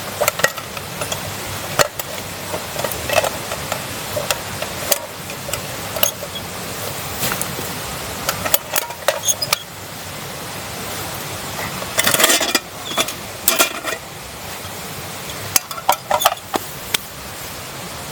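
Irregular clinks and knocks of camp cookware and utensils being handled, over a steady hiss, with a denser cluster of clatter about two thirds of the way through.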